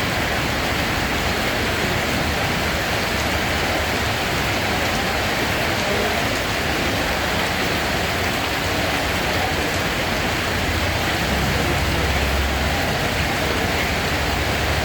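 Steady rain, an even hiss with a low rumble underneath that swells briefly a little past the middle.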